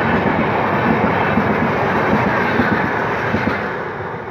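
Passenger train's coaches passing at speed, wheels clattering over the rails in a dense rumble that fades as the last coach goes by near the end.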